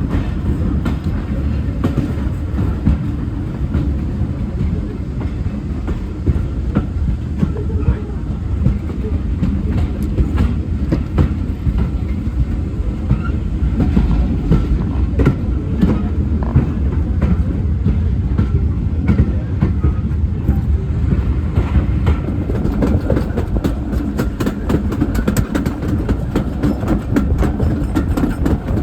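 Heritage railway train running on the track: a steady low rumble with frequent clicks and knocks from the wheels, the clicking growing denser near the end.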